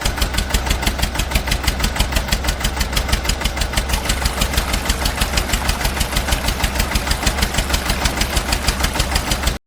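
Heavy vehicle engine idling with a steady, even chugging beat of about eight pulses a second. It starts abruptly and cuts off suddenly near the end.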